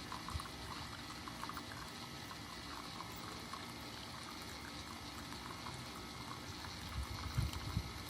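Keurig K-Mini single-serve coffee maker brewing: a steady watery hiss with irregular soft gurgles and knocks, a few louder ones near the end.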